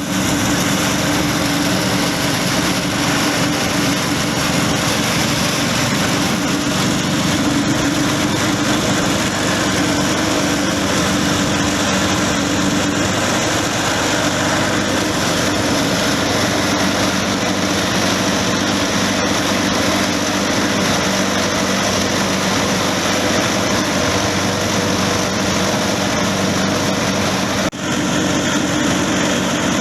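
Small rice-husk grinding mill running steadily: a loud, even machine drone with a steady hum underneath, briefly interrupted near the end.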